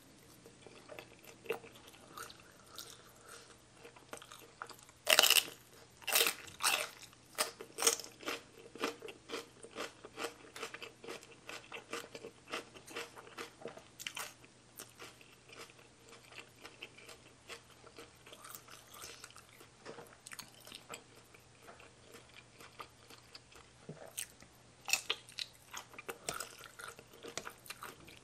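A person chewing and crunching a mouthful of fried fish ball and spicy mixed salad, with rapid irregular crunches that come loudest about five to eight seconds in and again near the end.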